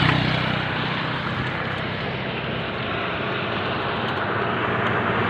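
Wind rushing over the microphone while riding, a steady rush with a faint low hum that fades after the first second.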